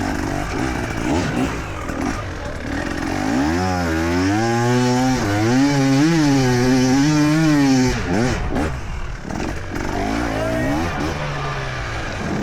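Enduro motorcycle engine revving hard, its pitch rising and falling with repeated throttle blips. It is loudest in the middle, then drops back to a lower, wavering run after a few sharp knocks.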